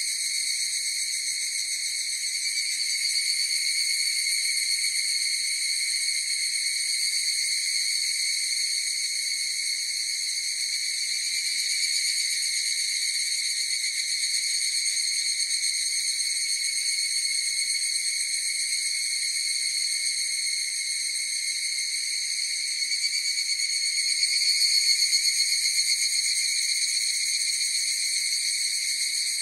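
Chorus of higurashi (evening cicadas, Tanna japonensis) calling, a steady high shrill tone with overtones that swells a little about three-quarters of the way through.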